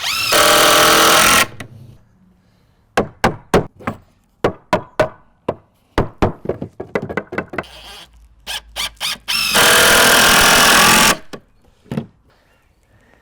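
Cordless drill driving screws into wood framing in two long runs, near the start and again near the end. Between them comes a quick series of sharp knocks and clicks.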